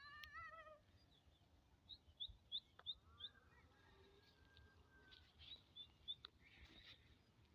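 Faint outdoor animal calls. A cat's meow trails off in the first second, then a small bird gives a run of five quick, high chirps, with a few more chirps a little later.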